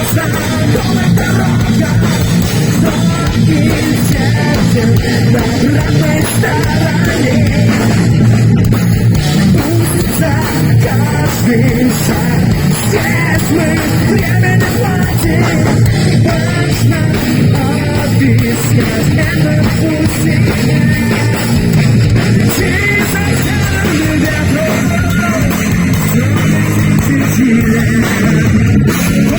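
Heavy metal band playing live, loud and continuous, with distorted electric guitar over bass and drums.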